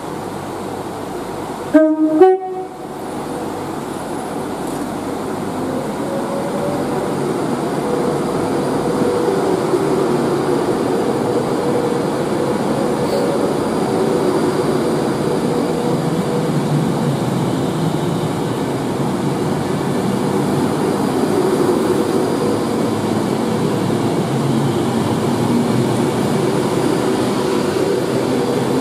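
A train horn sounds a short, very loud blast about two seconds in. A train then comes through, its rumble building over several seconds and holding steady, with a faint steady whine in the middle of the pass.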